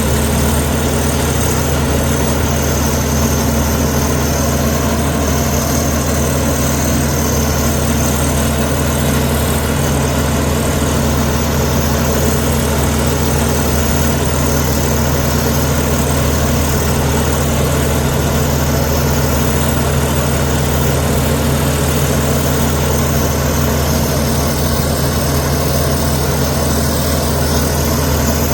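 Heavy diesel engine of earthmoving machinery running steadily at a constant speed, with a deep, even hum and no revving.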